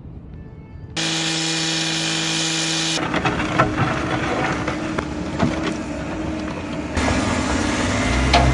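A power tool running, loud and steady, with a humming pitch at first; about two seconds later it turns rougher, with scattered clicks and knocks, and its sound shifts again near the end.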